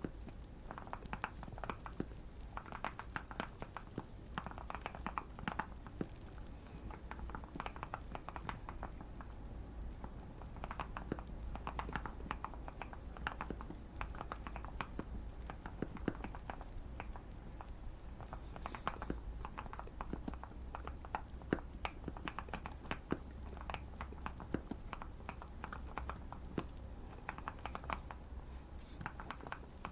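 Typing on a modded Keychron Q1 mechanical keyboard with Fierce Girl switches: quick runs of keystrokes with short pauses between them. Light fire crackling goes on underneath.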